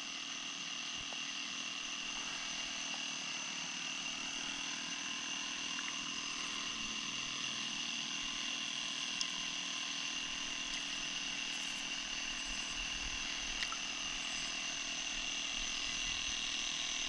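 Night insects chorusing: a steady, unbroken high-pitched buzzing drone, with a couple of faint clicks.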